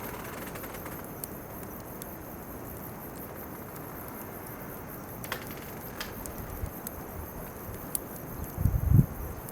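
Bonfire of chestnut burrs and weeds burning with a steady hiss and a few sharp pops, over a constant high-pitched chirring of insects. A few low thumps near the end.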